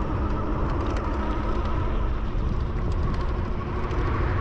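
Wind rumbling on the microphone of a camera riding on a moving bicycle, with road and tyre noise, a faint steady hum and small scattered clicks.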